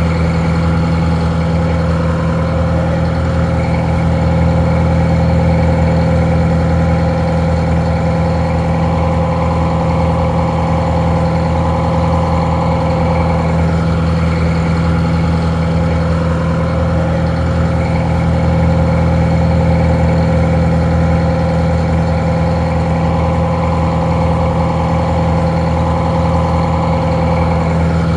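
Detroit Diesel 4-71 two-stroke inline four-cylinder diesel engine idling steadily, its pitch and loudness unchanging.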